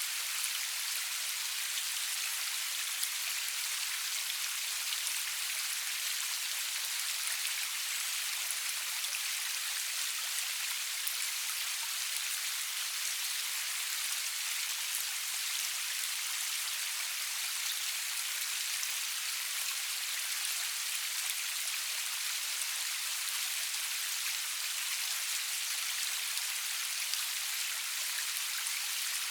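Steady rain falling, a continuous even hiss with faint scattered drop ticks and no thunder.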